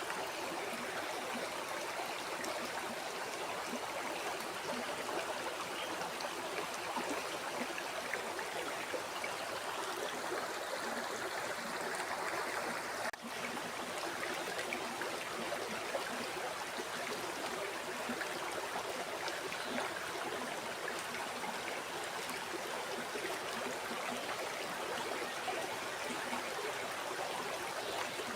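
A river flowing: steady rushing water, with a momentary drop in level about halfway through.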